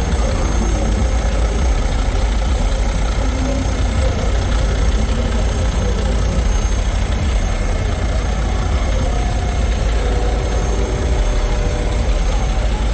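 Diesel semi-truck engines idling, a steady low rumble.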